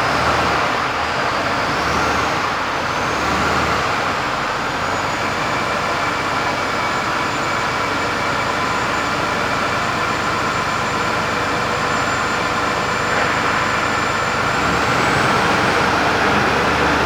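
Diesel engine of a 2016 DAF CF220 box truck running just after start-up, a steady low rumble with a thin high whine that climbs over the first few seconds, holds steady, and lifts slightly again near the end.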